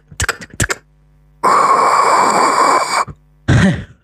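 Beatboxer's mouth sound effect: a loud, breathy hiss held for about a second and a half, then after a short pause a brief low vocal pop that drops in pitch.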